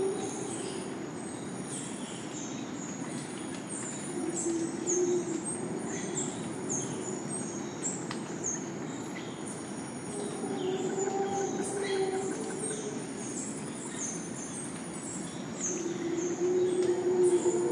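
Rainforest soundscape: a dense chorus of short, high, falling chirps keeps up throughout, over the low, drawn-out roars of howler monkeys that swell and fade every few seconds, loudest near the end.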